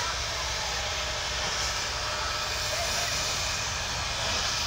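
A Union Pacific train rolling past at close range, its diesel locomotive and auxiliary water tender going by with a steady low rumble.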